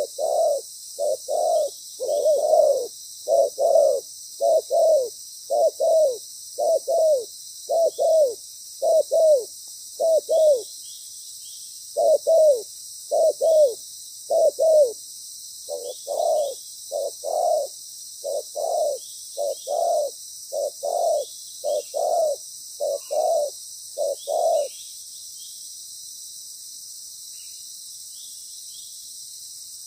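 Spotted dove cooing loudly, over and over, in repeated phrases of low coo notes. There is a short break partway through, and the calling stops about 25 seconds in.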